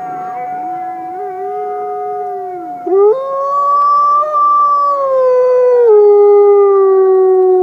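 Canine howling: two long overlapping howls, one holding a steady high note while the other glides. About three seconds in, the lower howl jumps up louder, holds, then drops to a lower held note near the end.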